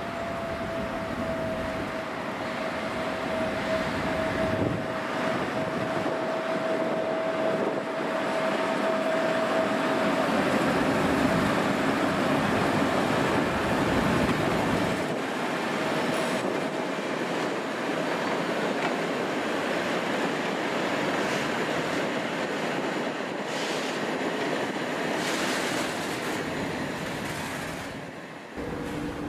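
A Soviet-built M62 diesel locomotive with its two-stroke V12 engine running as it hauls a long train of loaded hopper wagons past, followed by the wagons rolling by with a clatter of wheels on rail joints. A thin, steady high whine sinks slightly in pitch through about the first ten seconds.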